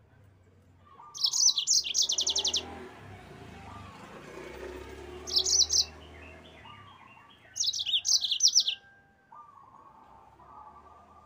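Yellow-fronted canary (Mozambique canary) singing in three loud bursts of high, fast trills: about a second in, around five seconds, and near eight seconds. Softer, lower chirps fill the gaps between the bursts.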